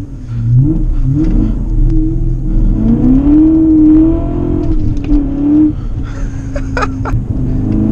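BMW E39 M5's V8, with an X-pipe and muffler-delete exhaust, heard from inside the cabin as the car accelerates: the engine note climbs in pitch about a second in and again from about two and a half seconds, holds high, then settles to a steadier, lower drone near the end.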